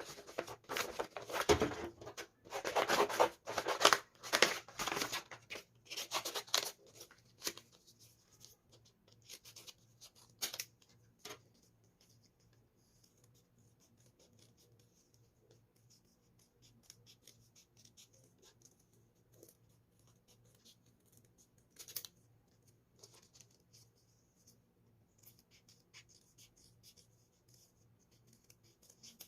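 Paper being handled, with loud rustling and scraping for the first six seconds or so, then only faint scattered ticks and one sharper click about 22 seconds in.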